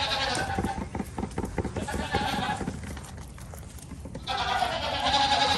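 Goat bleating: a long, quavering bleat trails off over the first few seconds, then another loud bleat starts about four seconds in.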